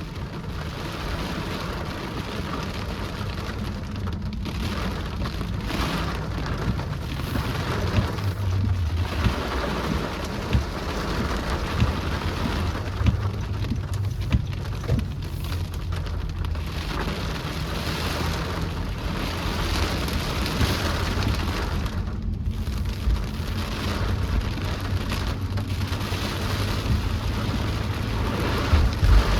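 Steady rain, an even hiss, over a continuous low rumble.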